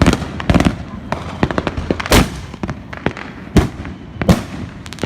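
Fireworks going off: a run of sharp bangs and pops at uneven intervals, the biggest bangs about two seconds in and twice more near the end.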